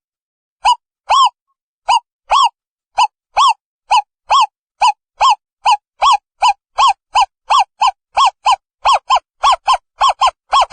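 Owl calling, a long series of short hoots, each rising and falling in pitch, that speeds up from about two a second to about four a second.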